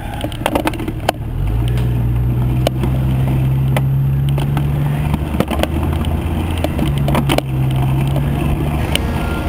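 A car engine close by running steadily, a low hum that comes in about a second and a half in and steps up slightly a second later. Scattered clicks and knocks run through it.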